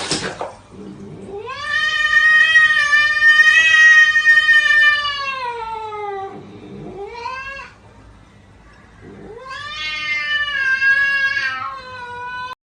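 A cat yowling in long, drawn-out calls: one call lasting about five seconds that falls in pitch at the end, a short call, then another long call that cuts off abruptly near the end.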